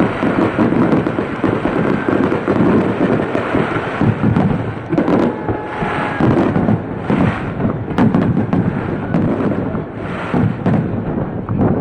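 Aerial fireworks shells going off in a dense, continuous barrage, one burst overlapping the next. There are crackling bursts around the middle and a sharp crack about eight seconds in.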